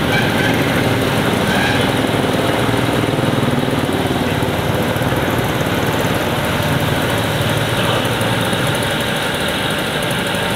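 Cruiser-style motorcycle engine idling steadily, a loud even running with no revving.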